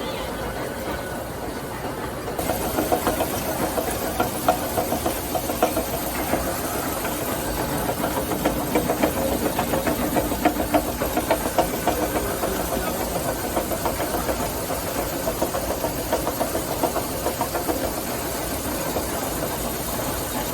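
Machinery running with a dense, rapid rattle that starts about two seconds in and then holds steady.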